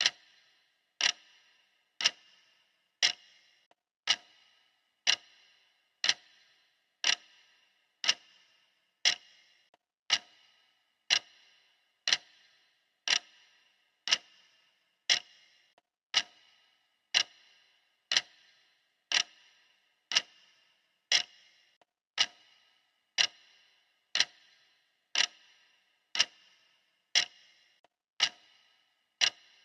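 Steady clock ticking, one sharp tick about every second, each with a short high ringing note.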